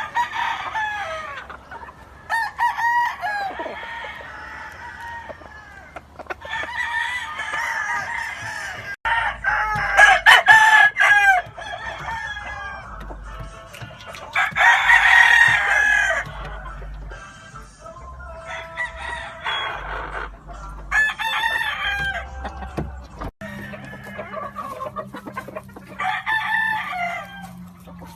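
Roosters crowing one after another, a long crow every few seconds, with chickens clucking between the crows.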